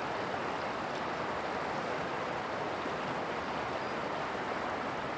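Steady rush of flowing river water, an even hiss with no breaks or single events.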